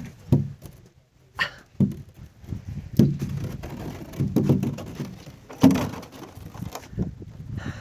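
A large plastic box being dragged and bumped up steps: irregular thumps and thunks with scraping between them.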